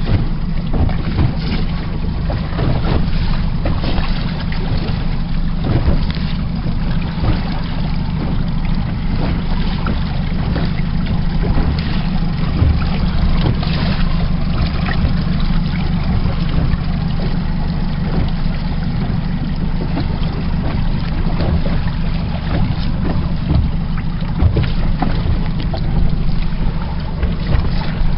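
40 bhp outboard engine on a rigid inflatable boat running steadily at cruising speed, a low drone under heavy wind noise on the microphone, with irregular short thumps throughout.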